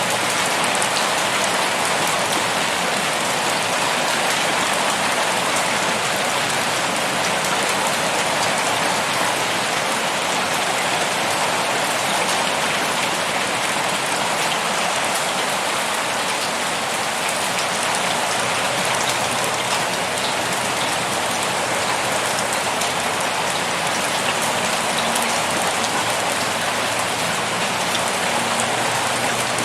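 Heavy rain pouring steadily, a dense hiss of drops with many fine individual patters on a hard surface.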